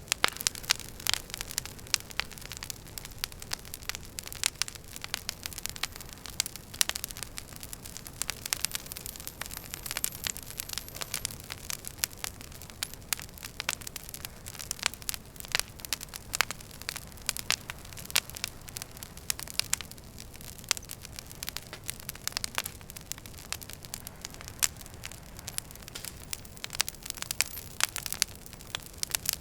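Wood fire burning in a fireplace: dense, irregular crackles and pops from the logs over a steady low hiss.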